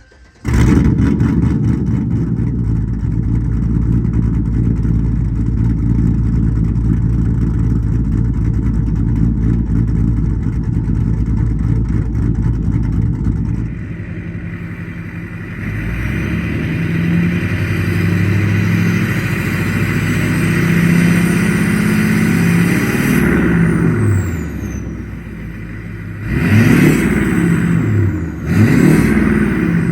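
V8 pickup truck running through a loud aftermarket exhaust: a steady idle for about the first thirteen seconds, then the sound changes abruptly and the engine is revved up and down several times, ending with two quick, sharp revs near the end.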